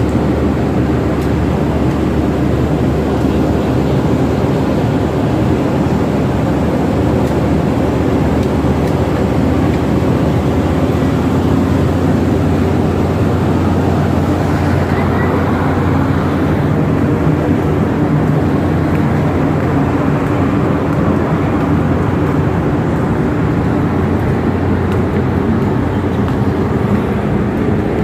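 Steady low drone of a large passenger ship's engines, heard on board, with several held tones under an even rumble.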